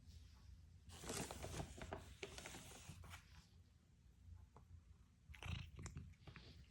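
Bengal cat chewing and crunching food, in two bouts of quick, clicky crunching with a short pause between them.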